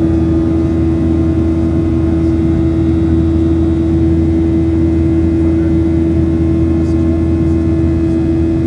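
Boeing 737-800 cabin noise with its CFM56-7B engines at steady power: an even drone of engine and airflow with a constant low hum tone, unchanging throughout.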